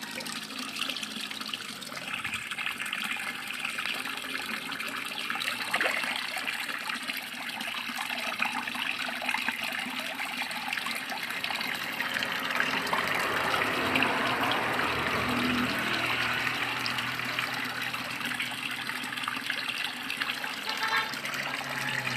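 Steady rush of running water splashing into a koi pond, slightly fuller in the second half.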